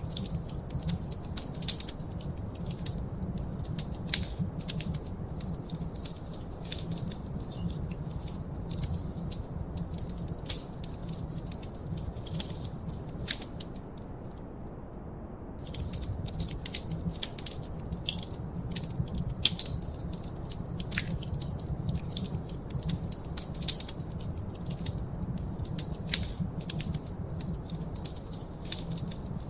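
Wood fire crackling, with a steady stream of sharp pops and snaps over a low, even rumble of flames. The crackling stops for about a second and a half around the middle, then resumes.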